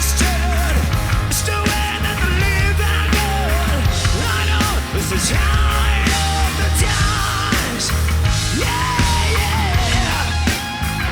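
Live hard rock band playing loud, with drums, bass and electric guitar, and a lead line of bending, wavering notes over a heavy pounding beat.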